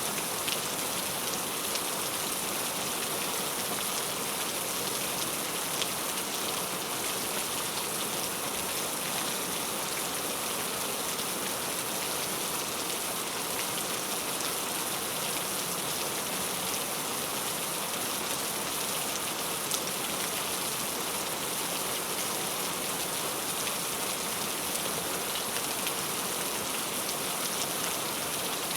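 Heavy rain falling steadily as a dense, even hiss, with scattered individual drops ticking on a surface.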